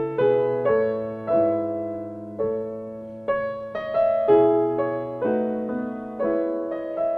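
Background music: slow solo piano, chords struck one after another and left to ring out.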